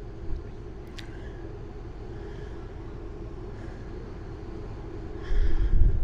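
Steady low drone of a ferry underway, with a single sharp click about a second in and a loud low rumble of handling or wind noise near the end.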